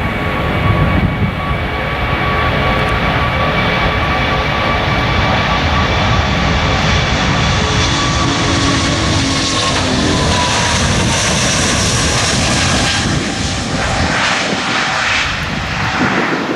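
Jet airliner's engines at takeoff thrust as the aircraft departs close by: a loud, steady rumble with high whining fan tones. About ten seconds in, a tone drops in pitch as the aircraft passes, the noise grows hissier, and near the end the low rumble thins out as it moves away.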